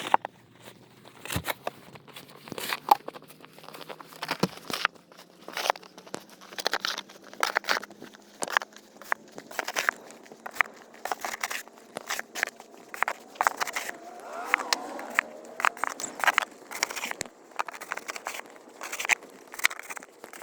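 Footsteps crunching through snow, an irregular series of crisp crunches about one or two a second, over a faint steady hum that slowly rises in pitch.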